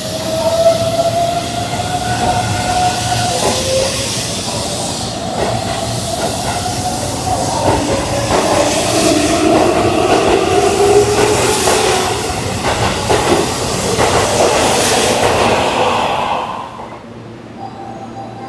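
Keihan electric train moving through the station at close range: a whine that slowly shifts in pitch over the running noise, with wheel clicks on the rails. The sound falls away sharply about 16 seconds in.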